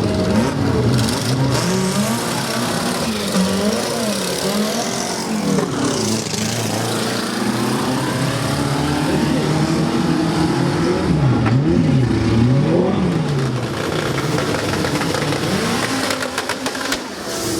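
Drag-race car engines revved up and down over and over, the pitch climbing and falling about once a second, with a longer climb midway.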